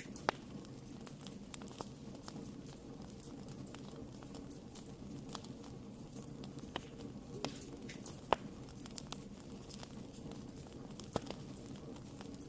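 Wood fire burning in a fireplace: a steady low rush of flame with irregular crackles and sharp pops, a few louder pops standing out just after the start, about two-thirds of the way through and near the end.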